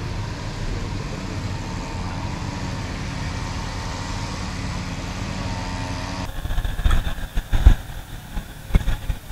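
Chery Tiggo 8 Pro SUV engine idling steadily. About six seconds in, the sound cuts abruptly to loud, irregular low thumps of wind buffeting the microphone.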